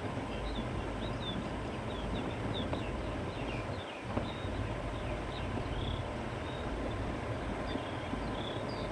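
Steady wind blowing across open countryside, with a low rumble of wind on the microphone, and small birds chirping over it many times.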